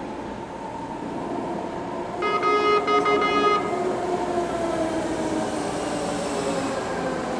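A BART train arriving at a platform, its rumble and a whine that falls slowly in pitch as it slows. About two seconds in, its horn sounds loudly for about a second and a half.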